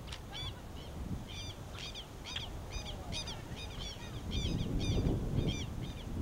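A bird calling over and over in short, harsh, pitched notes, about three a second, over a low rumbling noise that grows louder in the second half.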